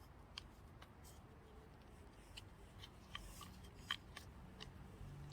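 Faint, scattered light clicks and taps, the loudest about four seconds in, as a flat screwdriver prises the old seals off the oil filter.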